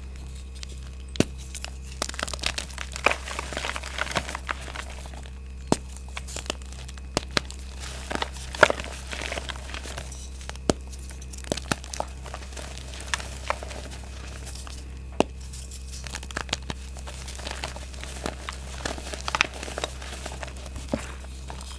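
Reformed gym chalk being crushed, crumbling and crunching with irregular sharp cracks and bursts of fine crackle, with short pauses between handfuls. Lumps of differing texture, some old and harder, give cracks of differing sharpness.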